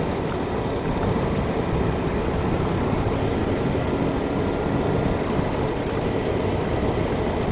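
Steady rush of wind and road noise from a motorcycle moving at road speed, heaviest in the low end, with a faint steady whine over it.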